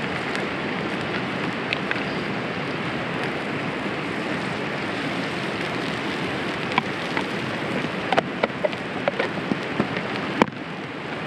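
Eggs frying in hot oil in a pan over a campfire: a steady sizzle, with scattered pops and clicks in the second half.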